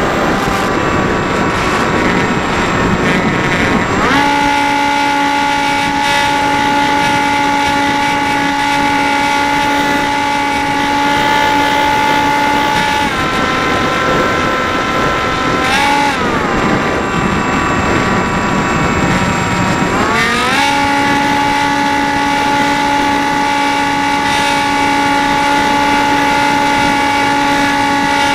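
Electric motor and propeller of a Dynam Hawk Sky RC plane whining steadily, its pitch jumping up as the throttle opens about four seconds in, sagging and wavering around the middle, and rising again about twenty seconds in. Gusty wind rushes on the microphone underneath.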